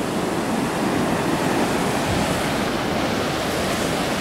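Large ocean waves breaking and washing up the shore, a steady rushing surf, with some wind on the microphone.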